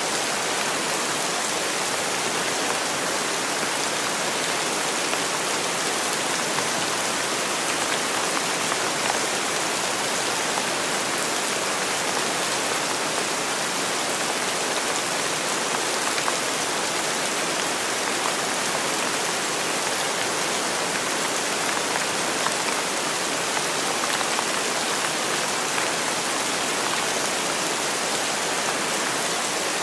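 Steady rainfall, an even hiss of many drops falling with no let-up.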